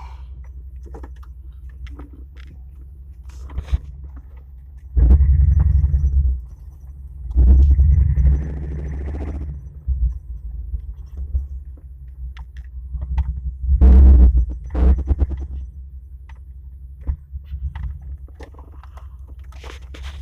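1997 Ford Explorer's 5.0 V8 idling with a low rumble through dual exhaust with Total Flow mini mufflers, revved briefly three times, about 5, 7 and 14 seconds in.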